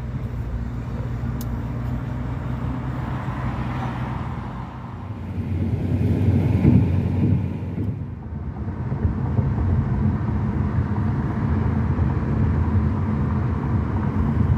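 Engine running with a steady low rumble that swells about six to seven seconds in.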